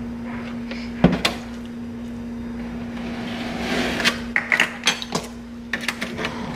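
Kitchen handling noises while milk is added to cornbread batter: a sharp knock about a second in, a swell of rushing noise around the middle, then a run of light clicks and taps, over a steady low hum.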